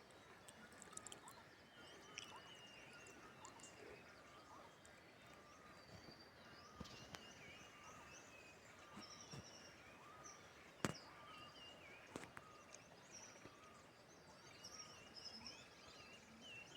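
Faint chirping calls of several small birds, short rising and falling notes repeated throughout over a quiet outdoor background, with a sharp click about eleven seconds in.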